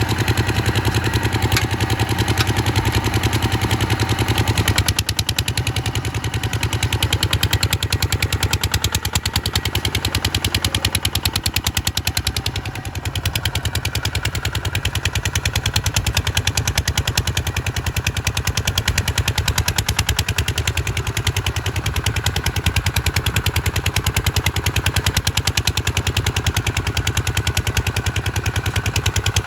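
Kubota RT140 single-cylinder diesel engine running under way, a fast, even chugging of exhaust pulses. The tone of the engine changes about five seconds in.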